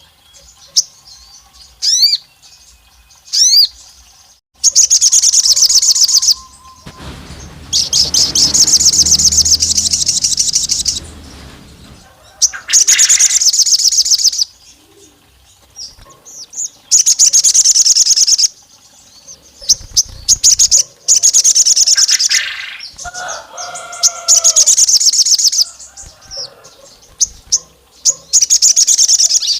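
Sogon (crimson sunbird) singing a lively, loud song: repeated bursts of very rapid, high-pitched trills, each a second or two long, with a few short swept notes in the pauses.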